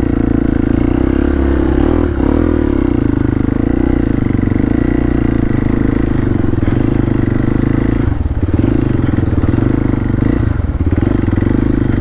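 Motorcycle engine running steadily and loudly, with two brief dips in revs about eight and ten and a half seconds in.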